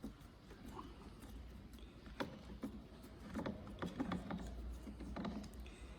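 Faint, irregular clicks and light metal taps of hand tools and small parts being handled while screws are undone on a motorcycle's handlebar mounting, over a low steady hum.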